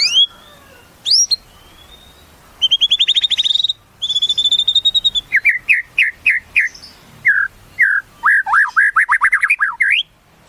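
White-rumped shama (murai batu) singing a loud, varied song: a couple of sharp rising whistles, a fast rattling trill, then quick runs of short falling whistled notes.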